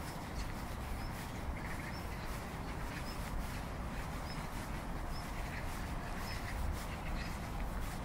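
Open-air park ambience: a steady low rumble with short, high bird chirps repeating about every second.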